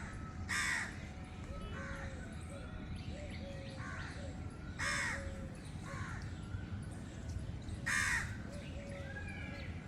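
Crows cawing: three loud, harsh caws a few seconds apart, with fainter short calls between them.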